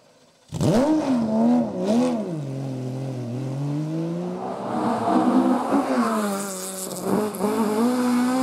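Race car engine at full throttle, cutting in suddenly about half a second in, its revs rising and falling repeatedly through gear changes and lifts as the car climbs the hill course.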